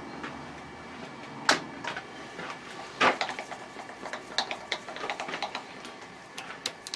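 Light metallic clicks and knocks of tools and metal parts being handled at a workbench or machine: a sharp knock about a second and a half in, a louder one about three seconds in, then a run of lighter clicks, over a faint steady hum.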